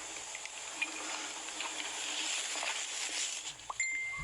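Close-miked ASMR eating sounds: wet chewing, smacking and squelching of soft, fatty food, with scattered small clicks. A short steady beep sounds near the end.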